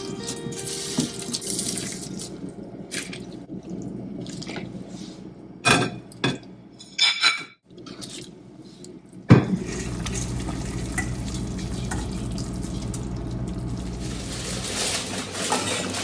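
Water running from a kitchen tap. It stops for a few seconds in the middle, when a few light knocks are heard, then comes back on with a sharp click about nine seconds in.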